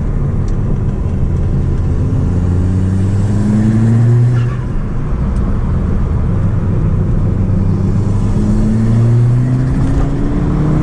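Audi S3 8P's tuned 2.0 TFSI turbocharged four-cylinder, fitted with an aftermarket downpipe, pulling hard under acceleration: the revs climb, fall back briefly about four and a half seconds in, then climb again near the end.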